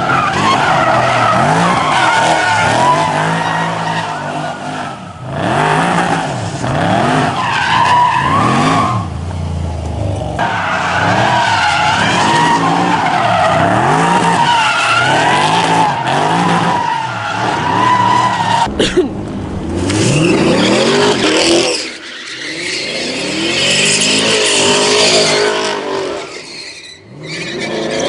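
V8 cars drifting: engines revving up and down over and over while the tyres squeal almost without pause. The sound breaks off abruptly a few times.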